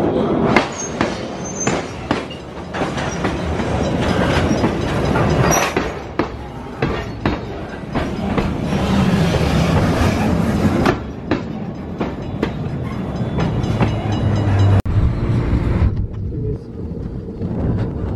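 Freight train of open-top hopper cars rolling past close by, wheels clattering steadily over the rails with a few brief high squeals. About three seconds before the end the sound changes to the steady road noise of a car driving.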